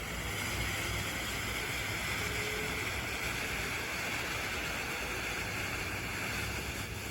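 Consumer firework fountain burning with a steady, high hiss of spraying sparks, no bangs or crackles.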